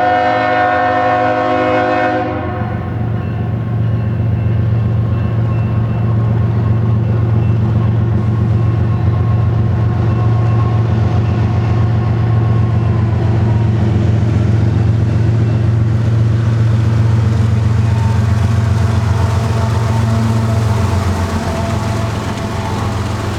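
A diesel freight locomotive's horn sounds a chord that cuts off about two seconds in. The locomotive's engine then runs with a steady low drone as the freight train rolls past slowly, with wheel and rail noise.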